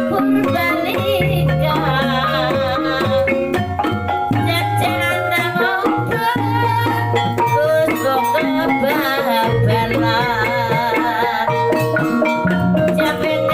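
Javanese kuda lumping (jaranan) music: drums and gongs keep a steady pattern under a busy melody line that wavers in pitch.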